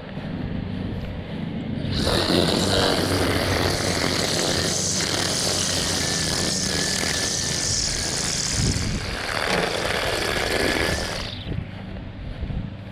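String trimmer running low throughout, then throttled up hard about two seconds in to a loud, hissing whine that holds for about nine seconds and drops back sharply near the end.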